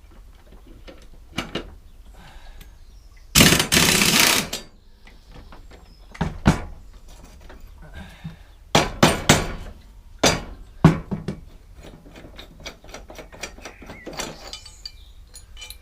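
Scattered sharp metal knocks and clanks of hand tools working loose a lawnmower's stubborn blade bolt, with one longer rattling burst about three and a half seconds in and a quick cluster of knocks around nine seconds.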